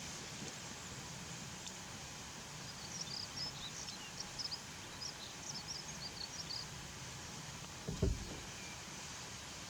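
Small birds chirping with short, high calls over a steady outdoor background hiss, with a brief low thump about eight seconds in.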